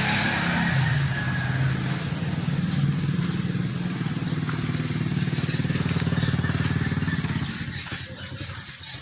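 A motorcycle engine running steadily, fading away in the last second or two.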